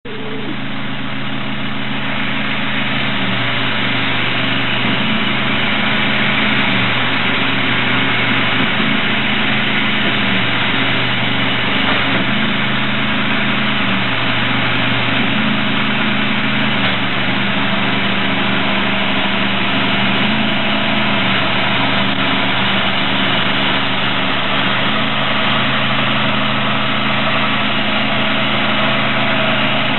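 Engine running steadily near idle, its pitch stepping slightly up and down a few times, over a steady hiss.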